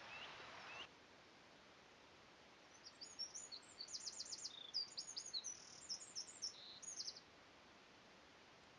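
A songbird singing faintly: a run of quick, high chirps and trills lasting about four seconds, over faint outdoor background hiss.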